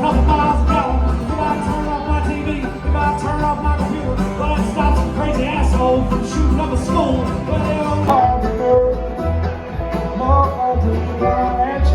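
Bluegrass music with banjo and guitar over a steady bass beat.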